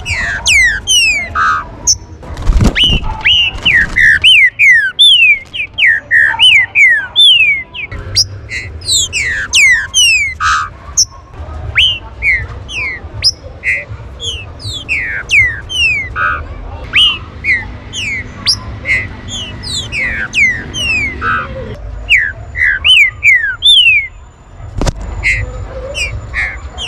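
Green-winged saltators calling: a dense, continuous stream of short, sharp, downward-slurred chirps, several overlapping at once.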